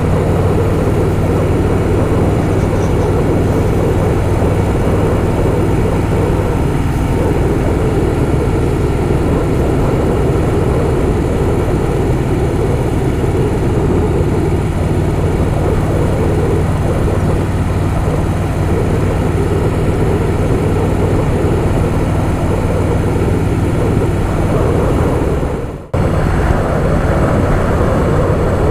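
Harley-Davidson Softail Fat Boy's V-twin engine running steadily at cruising speed, mixed with wind noise on the bike-mounted mic. Near the end the sound briefly drops out and comes back.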